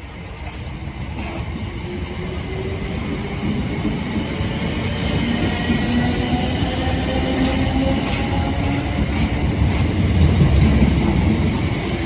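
A train approaching, growing steadily louder, with a droning engine or motor tone that rises slightly in pitch and a thin high squeal from the wheels on the rails.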